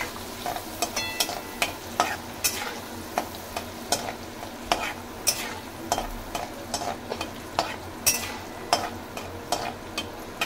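Cashews frying in melted butter in a metal kadhai, sizzling steadily, while a spatula stirs them and knocks and scrapes against the pan about twice a second.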